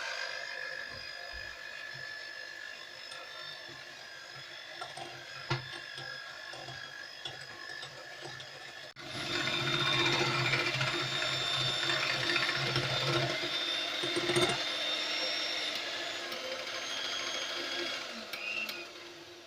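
Electric mixer beating eggs with sugar, its motor whining steadily. It gets louder about halfway through and winds down near the end. The mixing is meant to whip the eggs until they double in volume.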